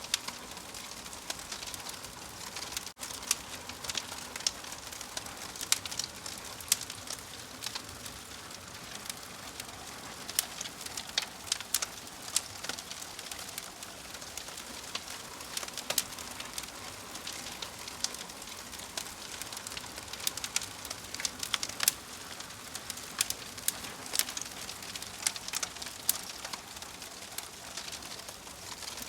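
Wood fire crackling steadily, with frequent sharp, irregular pops and snaps over a soft hiss.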